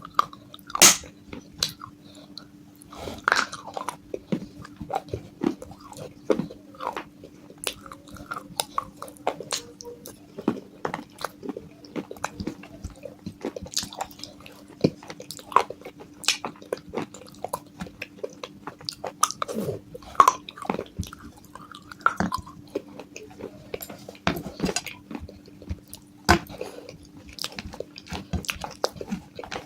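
A person crunching and chewing pieces of broken baked clay pot, with many sharp bites and crunches at an irregular pace. A steady low hum runs underneath.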